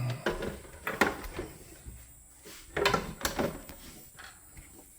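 Knocks and clunks of a partly dismantled Breville Barista Express espresso machine being turned around and handled on a work surface, with sharp knocks about a second in and around three seconds in.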